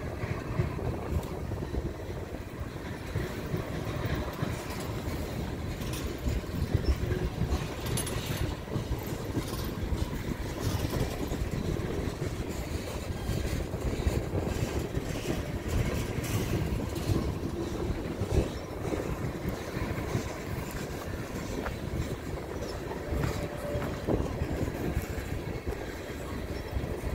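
Tank cars of an oil train rolling past: a steady low rumble of steel wheels on rail, with occasional sharp clanks.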